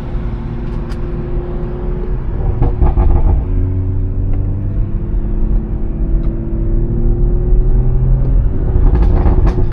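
BMW 340i's turbocharged 3.0-litre inline-six, fitted with a catless downpipe and a valved aftermarket exhaust, running while the car is driven. About three seconds in there is a brief, louder, rougher patch. After that the engine note rises slowly for a few seconds.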